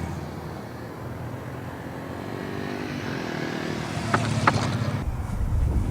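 Motorcycle engine running and accelerating, its pitch rising gradually.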